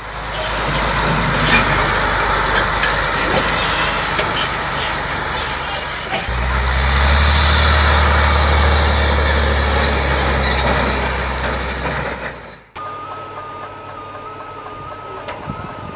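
Heavy truck engine running with a dense, loud rumble, its low end heavier for several seconds in the middle. After a sudden cut about three-quarters in, a steady high-pitched electronic tone sounds over quieter background noise.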